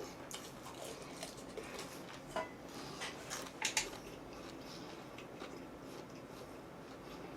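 Faint eating sounds: small clicks and smacks of chewing, with two slightly louder ones about two and a half and three and a half seconds in.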